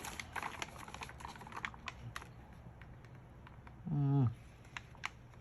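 Quick light clicks, ticks and faint rustling of small paper letter pieces being handled and sorted, busiest over the first two seconds and sparser after. A short hummed 'mm' about four seconds in.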